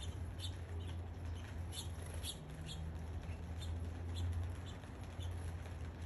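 Small birds making short, high chirps, about a dozen scattered irregularly, over a steady low hum and a faint hiss.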